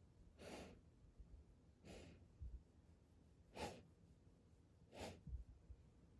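A Great Pyrenees breathing out in faint short huffs through its nose, four puffs about a second and a half apart, with a couple of soft low thuds between them.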